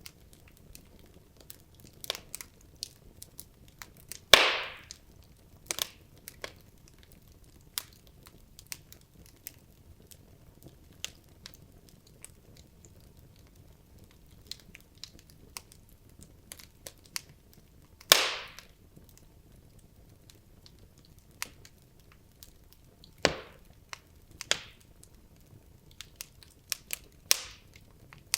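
Wood logs burning in a fireplace, crackling: irregular small snaps over a faint hiss, with two loud pops about 4 and 18 seconds in and a few sharper cracks near the end.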